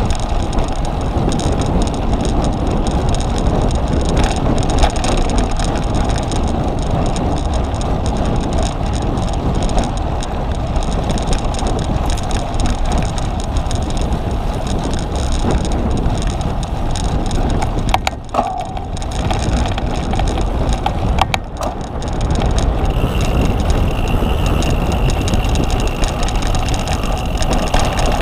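Cyclocross bike being ridden over rough ground: a steady loud rumble and rattle of tyres and frame, with wind on the microphone. The noise drops briefly twice, and a faint steady high tone joins near the end.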